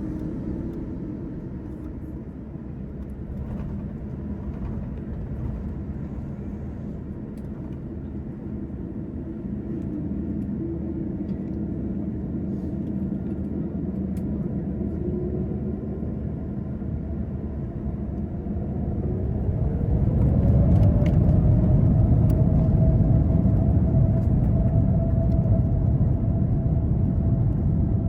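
The Boeing 787-9's General Electric GEnx jet engines: a steady low rumble, then about two-thirds of the way in a whine rises in pitch and holds while the rumble grows much louder as the engines spool up to higher thrust.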